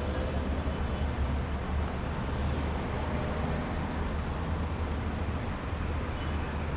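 Steady city traffic noise at night: a constant low rumble of engines with even road noise over it, holding at a level pitch and loudness.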